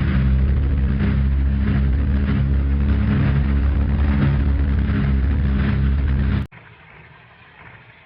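Twin radial piston engines of a B-25 Mitchell bomber running loud and steady, cutting off suddenly about six and a half seconds in.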